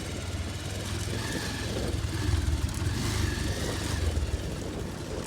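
Motorcycle engine running steadily, a dense low drone under a constant haze of noise.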